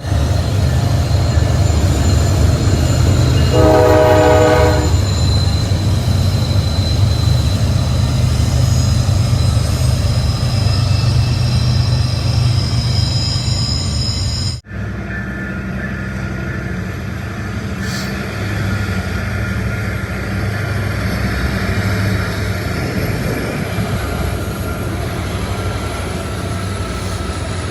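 Train passing with a steady low rumble and high steady wheel squeal, and a short horn blast about four seconds in. About halfway through it cuts to another passing train with the same rumble and high squealing tones.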